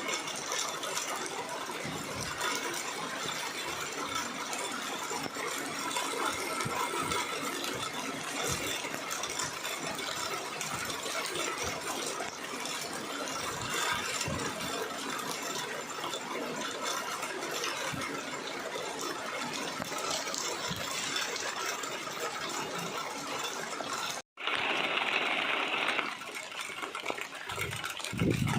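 Steady rain with scattered drips and ticks pattering on hard surfaces. The sound cuts out abruptly about 24 seconds in, then returns as a louder, brighter rush for a couple of seconds.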